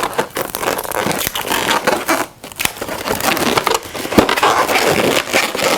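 Latex twisting balloons being handled and twisted, a dense crackling and rubbing of rubber on rubber and hands, with one sharp snap about four seconds in.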